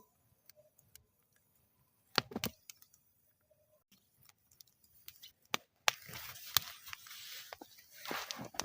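Wood fire burning in a metal fire bowl, crackling with scattered sharp pops and a cluster of loud pops about two seconds in. Over the last few seconds it becomes a hissing rush of flame with dense crackling.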